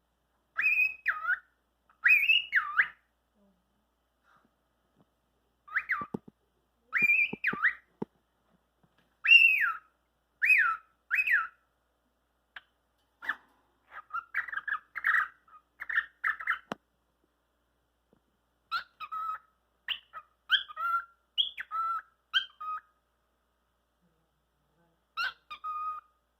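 A cockatiel whistling in short phrases of swooping notes, separated by pauses, then quicker, choppier chirps and whistles in the second half.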